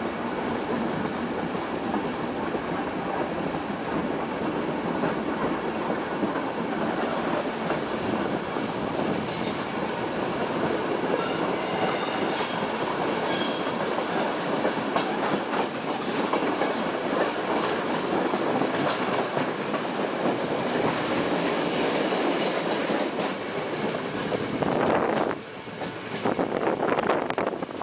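Regional passenger train running along the track, heard from an open carriage window: a steady rumble and clatter of wheels on the rails. Near the end the noise drops briefly, then comes back as a louder rush of air.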